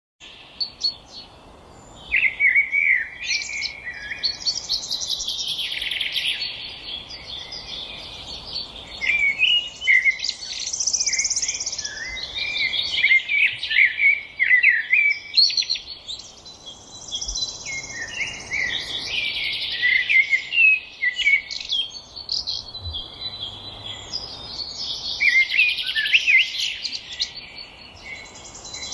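Songbirds singing in a forest: rapid, high-pitched warbling song phrases that swell and fade every few seconds, starting about two seconds in, over a faint steady background hiss.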